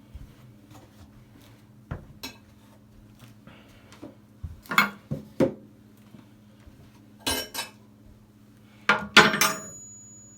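Several sharp clinks and knocks of hard objects being handled, in three or four small clusters, the loudest near the end, over a faint steady hum.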